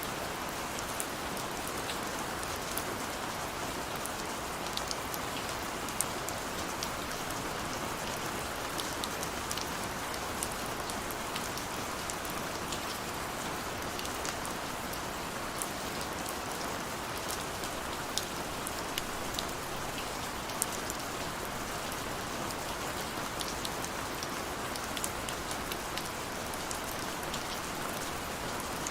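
Steady rain falling, with a constant hiss and scattered sharp drop ticks.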